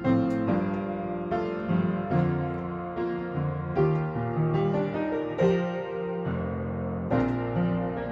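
Background piano music, slow and gentle, with sustained chords and single notes.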